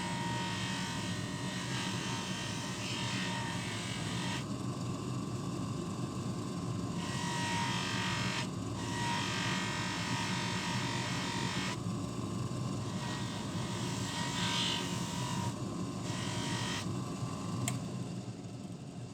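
A small electric motor runs steadily, with a hissing, rubbing sound above it that starts and stops several times.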